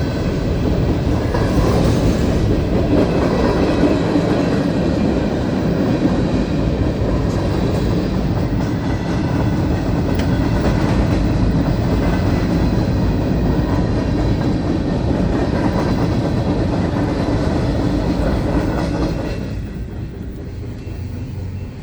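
Freight train cars rolling steadily past, a loud continuous rumble with the wheels clacking over the rail joints; it drops off somewhat near the end.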